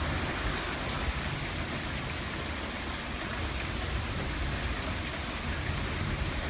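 Heavy rain falling steadily in a thunderstorm downpour, an even hiss with scattered drop ticks.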